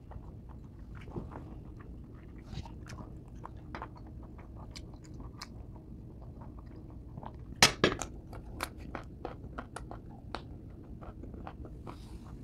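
Close-up chewing and crunching of crisp raw green mango slices, many short crunches scattered through, with a couple of louder sharp sounds about eight seconds in.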